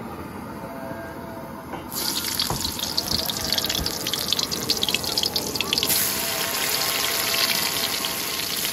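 Sliced onion and chopped greens dropped into hot oil in a large karahi, sizzling and crackling sharply from about two seconds in. The sizzle turns into a denser, steadier hiss from about six seconds in.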